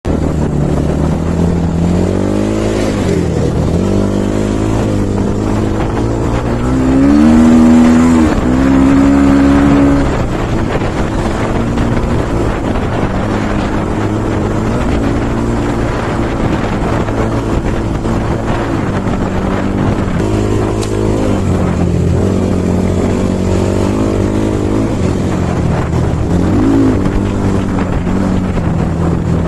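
Enduro dirt bike engine running and being revved, its pitch rising and falling several times. The highest and loudest revving comes about seven to ten seconds in.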